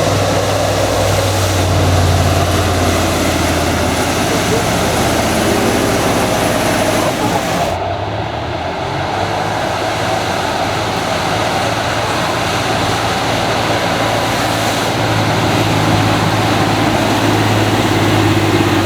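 Car engine running at low revs, a steady low hum with a noisy background, which changes abruptly about eight seconds in.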